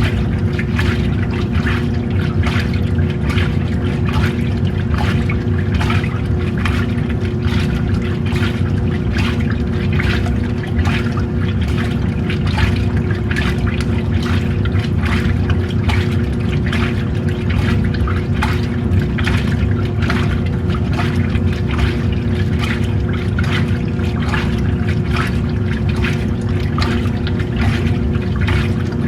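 Old-style washing machine running with water in the tub: a steady motor hum under continuous sloshing and splashing water.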